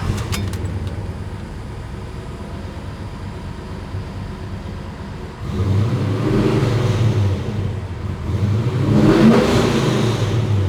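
Custom-built 383 stroker V8 running through a 2.5-inch exhaust with Magnaflow mufflers, with a few sharp clicks at the start. About halfway in it grows louder and rises in revs twice.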